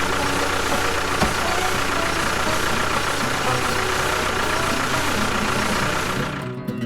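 An engine running steadily at an even pace, cutting off near the end.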